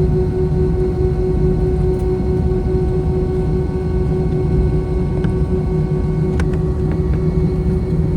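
Airbus A321 airliner heard from inside the passenger cabin: a steady jet engine and airflow drone with a constant humming tone, holding level throughout, and a few faint clicks in the second half.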